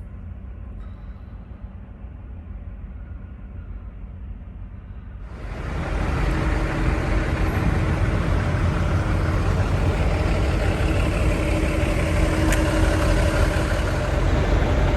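Steady running engine noise, like a vehicle idling. It is muffled and quieter for the first five seconds, then turns louder and fuller, with a steady low hum.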